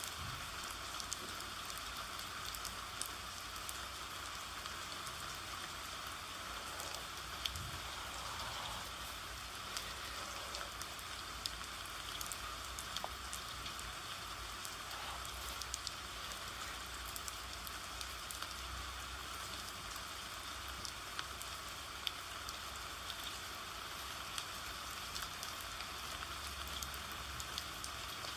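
Steady rain falling, an even patter with many scattered small drop ticks.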